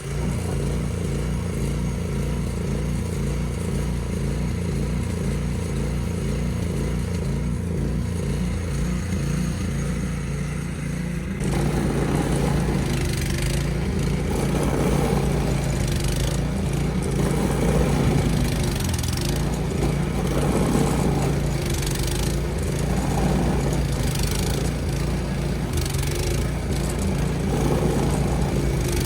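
An engine running steadily, getting louder and rougher about eleven seconds in and staying that way.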